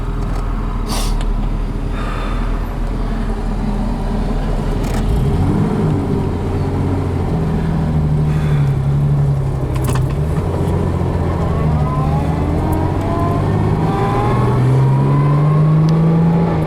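A 1960 Jaguar Mk 2's 3.8-litre straight-six running under way, heard from inside the car, pulling through the gears of its four-speed manual. The engine note climbs over the last few seconds and falls away near the end as the revs drop for an upshift.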